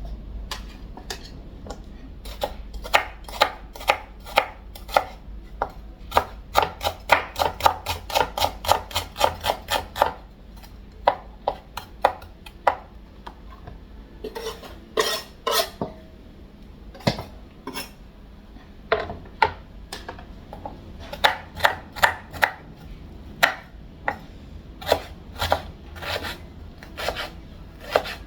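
Kitchen knife slicing seasoning vegetables on a cutting board. It starts with a fast, even run of chops, about five a second, then goes on in slower, irregular groups of strokes.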